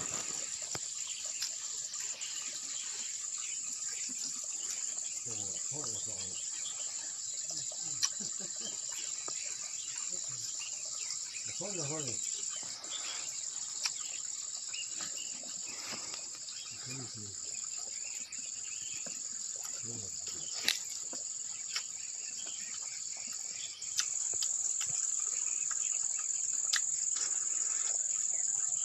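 Steady high-pitched insect chorus, trilling without a break and growing a little louder a few seconds before the end, with a few faint clicks.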